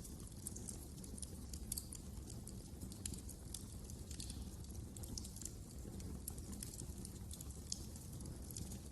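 Wood fire crackling in a fireplace: frequent sharp, irregular snaps and pops over a steady low rumble of the flames.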